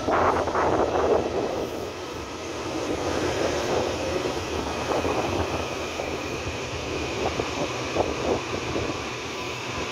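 Taiwan Railway EMU800-series electric commuter train (set EMU819/820) rolling slowly into the station as it slows to a stop. Wheel clatter is strongest in the first second, a steady high whine runs under it, and a few sharp wheel knocks come near the end.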